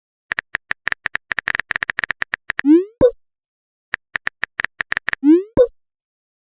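Smartphone keyboard typing sound effect, a quick run of tapping clicks, followed by a short rising chirp and a pop as the message is sent; the pattern plays twice.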